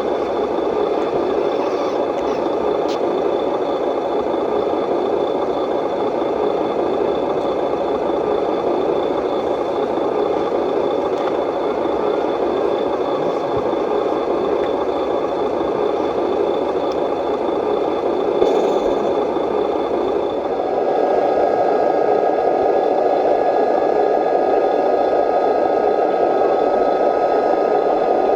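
The electric motors and hydraulic pumps of RC construction models running, a steady mechanical whir with faint rattling. About twenty seconds in it gets slightly louder and higher, with a thin high whine added.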